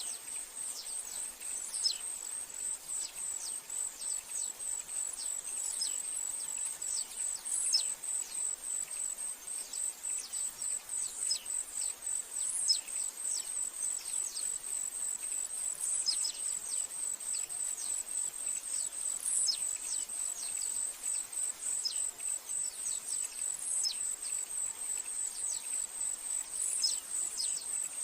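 A steady, high-pitched insect drone runs throughout. Over it comes a rapid series of short chirps, each falling sharply in pitch, several every second.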